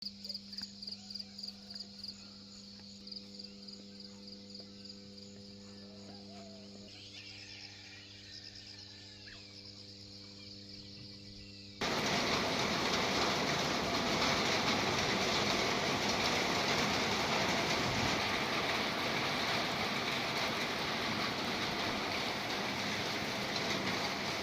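High chirping at about four a second, then scattered softer chirps, over a steady low hum. A little under halfway through, this gives way suddenly to the loud, even hiss of heavy rain.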